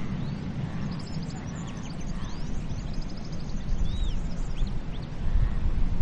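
Many small birds chirping and whistling in short high calls, with one arching whistle about four seconds in, over a low steady rumble of sea surf.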